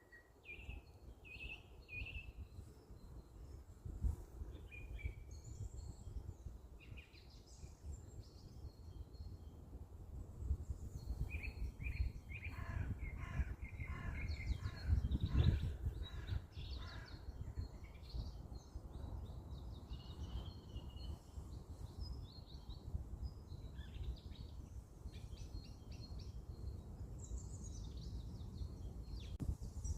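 Several wild birds chirping and calling in short scattered phrases, with a denser, louder run of repeated calls about halfway through. A steady low rumble, like wind on the microphone, runs underneath.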